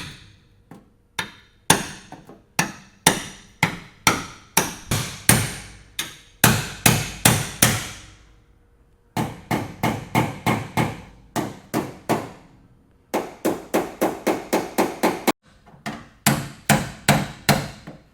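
Hammer striking a car's sheet-metal body panel, a long run of ringing blows at about two to three a second, with a short pause about eight seconds in.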